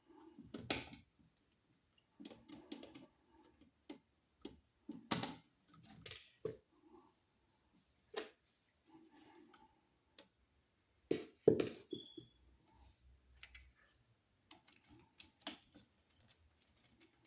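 Irregular clicks and light knocks of hand work on a wall receptacle: an old 18-gauge ground wire being looped around its terminal screw and the screw tightened, with sharper knocks about a second in, about five seconds in and past halfway.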